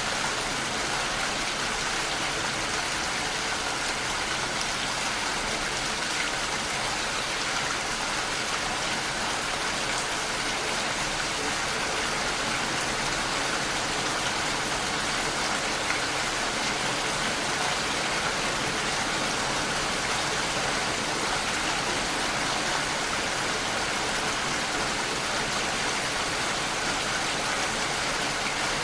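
Steady rain pattering against a window pane, an even hiss of drops with no let-up.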